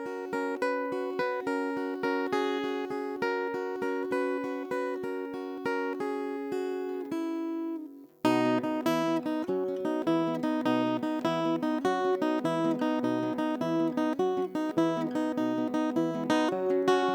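Acoustic guitar intro to an original song: light rhythmic picking for about eight seconds, a brief pause, then fuller strumming with deeper bass notes.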